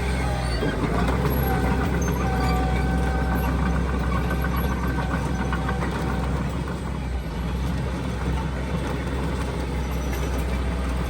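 Heavy diesel earthmoving machinery running steadily, with a thin high squeal from about a second and a half to five seconds in.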